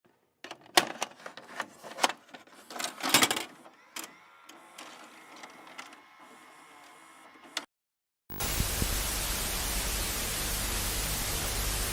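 Irregular clicks and knocks for several seconds, a moment of silence, then a steady static hiss with a low hum underneath starting a little past the middle.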